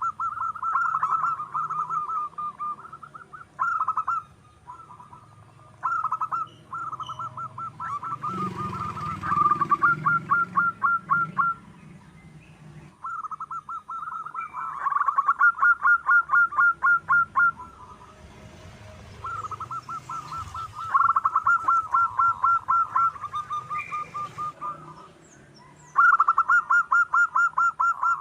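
Zebra dove (perkutut) cooing: phrases of rapid staccato notes, each a few seconds long, repeated with short pauses between.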